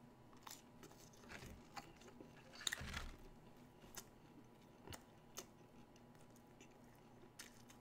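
Faint chewing of a chicken McNugget: scattered soft mouth clicks and squishes, a little louder about three seconds in.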